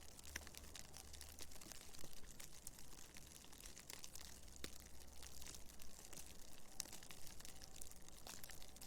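Faint blizzard ambience: blowing snow making fine, dense ticking and crackling over a low, steady rumble of wind.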